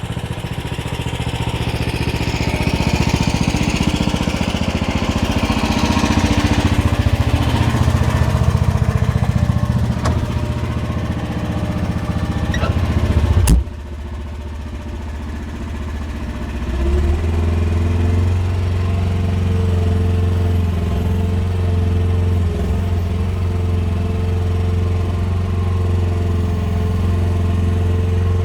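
Small engine of a QH13R mini excavator running hard while the hydraulics work, with a sharp knock about 13 seconds in. The engine then drops in level and settles into a steady, even run from about 17 seconds on.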